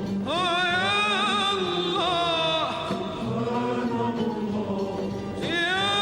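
Arabic religious chant (inshad): a solo voice holds long, wavering ornamented notes, about a second in and again near the end, over a lower sustained accompaniment.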